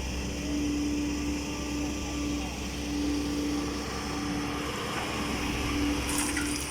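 Heavy diesel engine running steadily with a pulsing hum, with a brief clatter about six seconds in.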